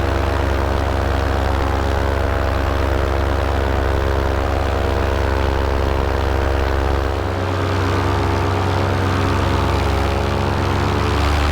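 Paramotor engine and propeller running steadily in flight, a constant pitched drone that eases slightly about seven seconds in and comes back up.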